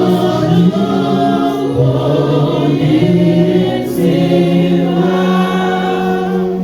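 Church choir singing a hymn in long held notes, with a steady low note sustained underneath from about four seconds in.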